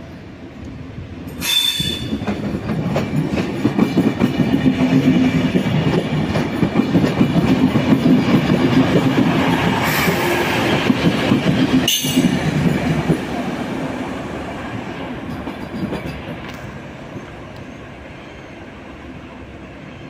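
A train running along the station tracks, with wheels clattering over rail joints and some wheel squeal. It comes up loud about a second and a half in, stays loud for about ten seconds, then fades away.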